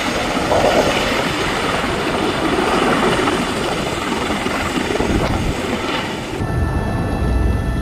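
Loud, steady rushing noise of a tour helicopter in flight. It stops about six and a half seconds in.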